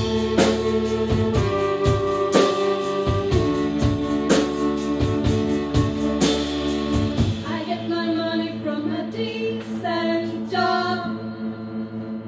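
A live band playing with drums and held chords. About seven seconds in, the drums drop out and singing carries on over a sustained chord.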